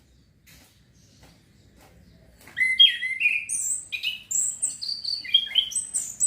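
A young male orange-headed thrush practising its song: after a few faint clicks, about two and a half seconds in it breaks into a fast, continuous run of varied high whistled notes, sliding up and down in pitch.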